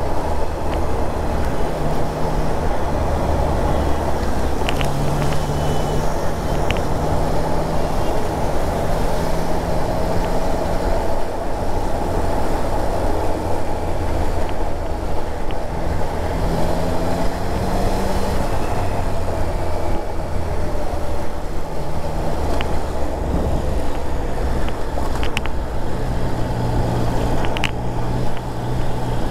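Triumph Trident 660's inline three-cylinder engine running at cruising speed in fourth gear, its note shifting up and down a few times with the throttle, under a steady rush of wind.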